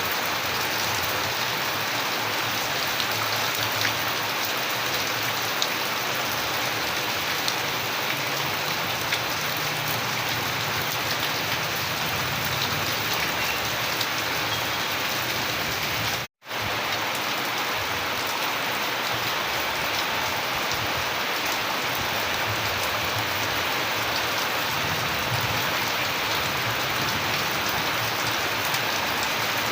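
Steady rain falling: a constant hiss with scattered ticks of individual drops. The sound cuts out for an instant about halfway through.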